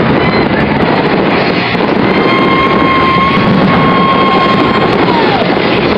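Aerial fireworks finale barrage: a dense, continuous wash of bursts and crackling. From about two seconds in a whistle holds one pitch, then drops in pitch near the end.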